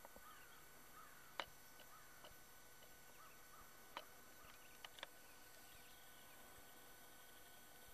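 Near silence with faint, high bird chirps scattered throughout. Four short, sharp clicks are the loudest sounds: one about a second and a half in, one at four seconds, and a close pair about a second later.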